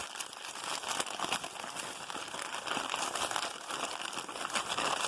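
Packaging crinkling and rustling continuously as hands dig through a gift box and handle wrapped items.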